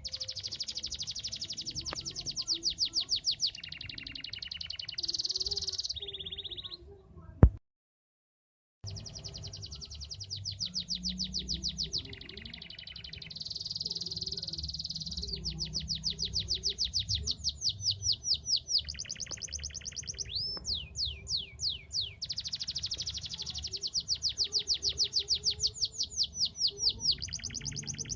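Domestic canary singing energetically in long runs of rapid trills and rolled phrases, each phrase a fast string of repeated notes that changes every second or two. About seven seconds in, a sharp click is followed by a second of dead silence before the song starts again.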